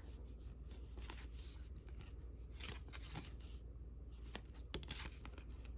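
Faint rustling and soft taps of old paper valentine cards being handled and sorted.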